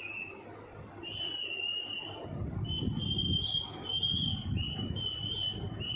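Ringneck parrot giving a string of high, thin whistled notes, about six in a row, each held for under a second. A low rumble runs under them from about two seconds in.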